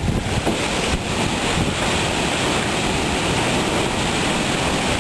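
Thunderstorm downpour with hail and strong wind: a loud, steady, dense rush of rain and hailstones.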